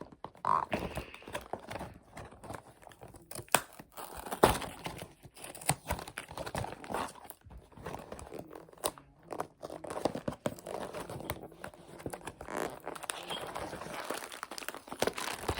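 Food packaging being handled and unwrapped, crinkling and tearing in an irregular run of crackles and sharp clicks.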